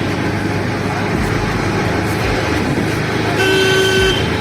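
Steady road traffic noise, with a vehicle horn honking once near the end for under a second.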